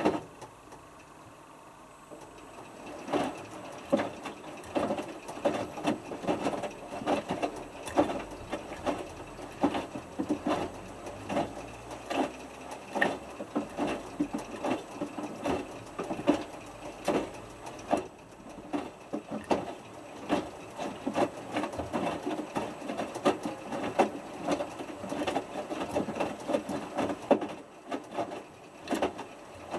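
Hotpoint Futura HF8B593 washing machine drum tumbling a small whites load in water during the heat-maintenance stage of the main wash. The drum is at rest at first and starts turning again about three seconds in, with irregular swishing and clicking.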